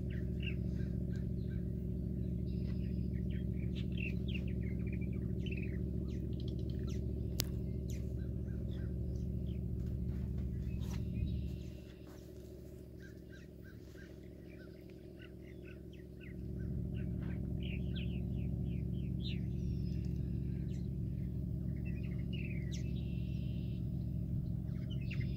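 Birds chirping and calling, many short chirps throughout, over a steady low hum that drops away for about four seconds midway.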